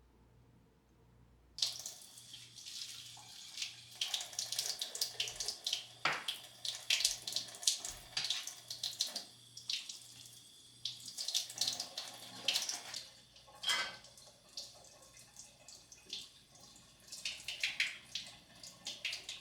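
Water from a tap running into a sink, splashing unevenly as something is held and rinsed under it; it comes on suddenly about one and a half seconds in.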